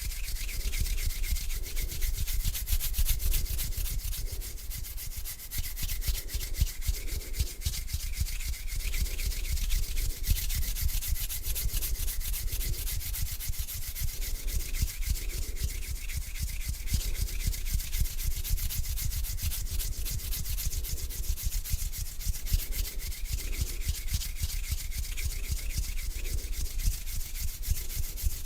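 Bare hands rubbing slowly together close to the microphone: a dry skin-on-skin friction hiss with fine crackles, in rhythmic back-and-forth strokes.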